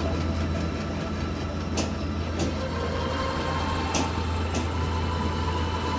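Passenger train noise: a steady low rumble with a few sharp clicks.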